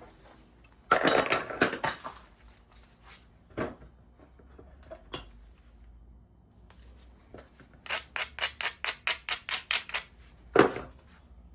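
Flintknapping: sharp, clinking strikes and ticks against flint as flakes are worked off to remove a hinge fracture. A quick cluster of clicks comes about a second in, then single strikes, a fast even run of a dozen or so light ticks near the end, and a louder final strike.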